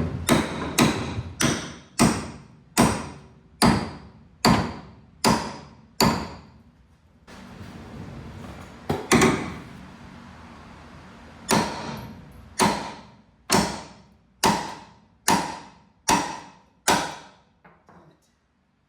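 Hammer blows on a homemade steel puller clamped to a front torsion bar, driving the bar out toward the rear. There are sharp strikes with a short ring, about ten in a row, a pause with a single blow, then another run of about nine.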